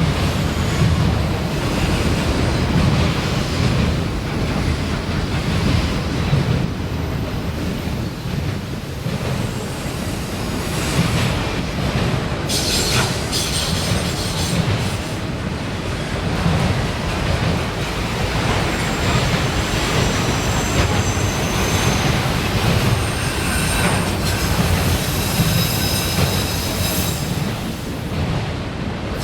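CSX freight train's cars rolling past with a steady heavy rumble of wheels on rail. Thin, high wheel squeals come in and out in the latter half.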